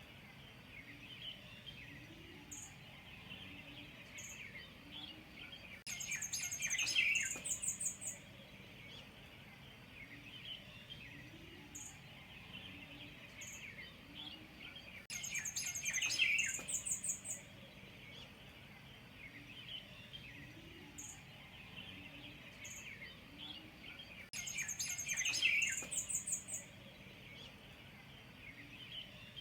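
Birds calling and chirping outdoors: a steady chatter of small calls, with a burst of rapid high trills about every nine seconds and soft low notes repeating in a slow rhythm underneath.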